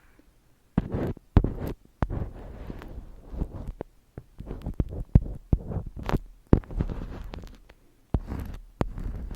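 Close-miked ASMR handling sounds: irregular taps and clicks mixed with rustling, with short pauses between.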